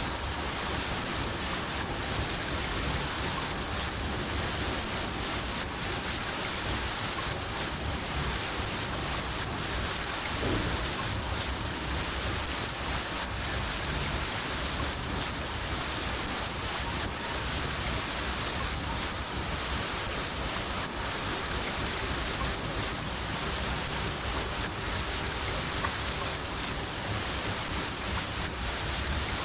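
A cricket chirping in an even rhythm, about two and a half chirps a second, with a brief break near the end, over steady rain and a low rumble of distant thunder.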